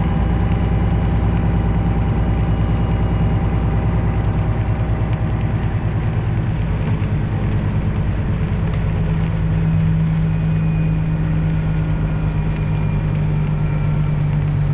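Detroit Diesel 12.7-litre engine of a Freightliner Classic XL semi truck running steadily as the truck drives, a continuous low diesel drone; its pitch drops slightly about nine seconds in.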